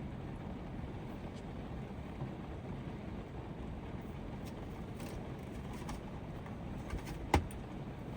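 Heavy typhoon rain and wind beating steadily on a van's roof, heard from inside the vehicle, with one sharp knock a little past seven seconds in.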